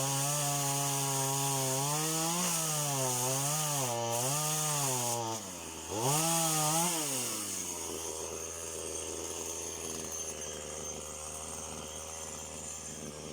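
Chainsaw running, its engine revving up and down several times in quick succession, then dropping back to a low idle about seven seconds in.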